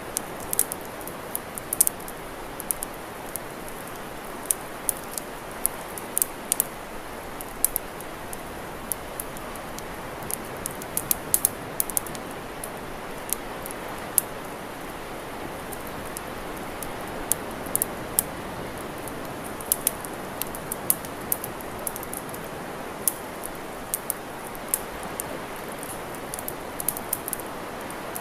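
Wood campfire crackling: irregular sharp snaps and pops, several a second in clusters, over a steady hiss.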